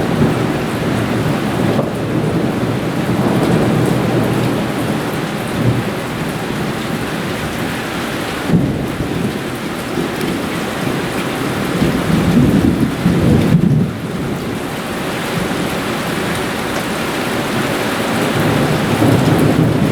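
Heavy downpour during a thunderstorm, a steady dense hiss of rain, with low rolling rumbles of thunder that swell and fade, the loudest about two-thirds of the way through.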